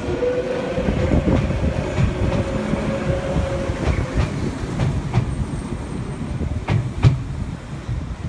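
Tokyu 7700-series electric train running past the platform, with a faint motor whine that falls slightly and fades about halfway through. Its wheels clack over the rail joints several times in the second half, the loudest clack near the end.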